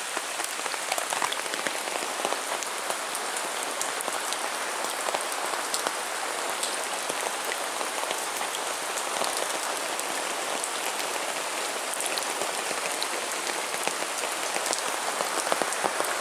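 Heavy rain falling steadily, with many individual drops pattering sharply on hard surfaces.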